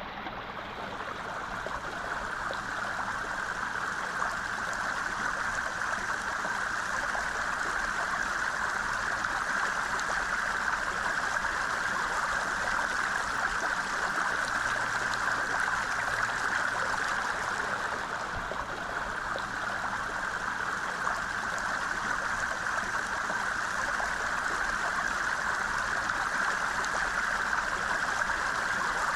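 A brook or mountain stream flowing, a steady rushing of water.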